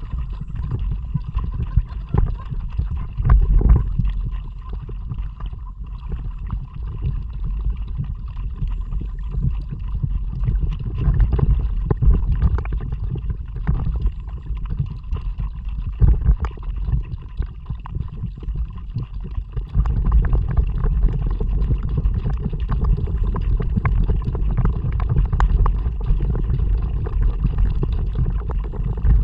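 A kayak being paddled on water: water splashing and gurgling from the paddle strokes and along the hull, under a steady low rumble of wind on an action camera's microphone.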